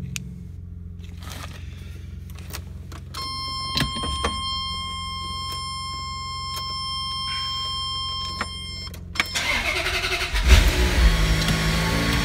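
Ferrari F355's 3.5-litre V8 being cold-started. With the ignition on, a steady electronic warning tone sounds for about six seconds. Then the starter cranks, and just over ten seconds in the engine catches and revs as it settles into a cold fast idle.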